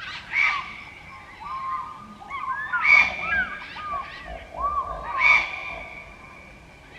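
Birds calling: many short chirps and whistled calls, with three louder calls spaced about two and a half seconds apart.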